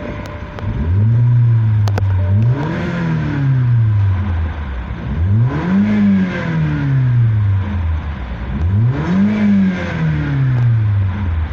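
BMW F20's N13B16A 1.6-litre turbocharged four-cylinder petrol engine free-revving three times: engine speed is held up for a moment, then each blip rises quickly and falls back slowly toward idle.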